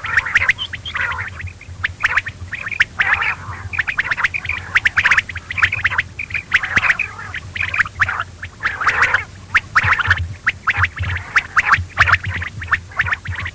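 Quail calling over and over in a dense chatter of short, rapid high calls, with a low steady hum underneath.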